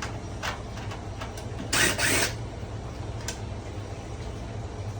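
A few light clicks and a short scraping rattle from the washer's plastic control panel being handled as it comes off, over a steady low hum.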